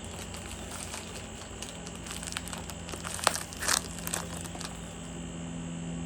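Plastic snack wrapper being handled, crinkling with a run of small crackles. There is a sharper, louder crackle a little past three seconds in, then a short burst of tearing or crinkling.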